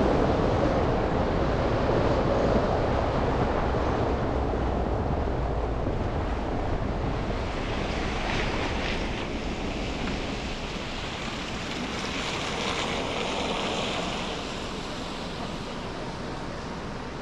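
Car driving on snowy city streets: a steady tyre hiss with low engine and road rumble. The rumble is strongest at first and eases off, and a brighter hiss rises for a few seconds past the middle.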